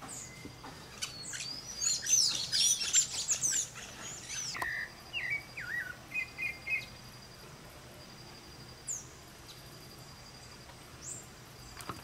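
Wild birds calling: a dense burst of high, squeaky chattering chirps for a couple of seconds, then a few lower whistled notes and a short repeated note, and later two single falling chirps. A faint, steady, pulsing insect buzz runs underneath.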